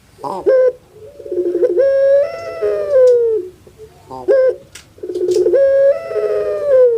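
Puter pelung dove (Streptopelia risoria) calling twice: each call opens with a couple of short notes and a quick rolling stutter, then draws out into a long coo that falls in pitch at the end.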